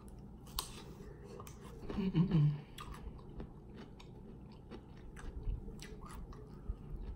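Close-up mouth sounds of chewing cucumber and chicken: a run of small wet clicks and crunches. About two seconds in there is a short hum from the eater's voice.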